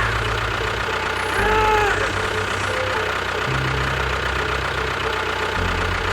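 An engine idling with a low knocking throb, its pitch stepping up and down a few times, with a few brief rising-and-falling tones above it.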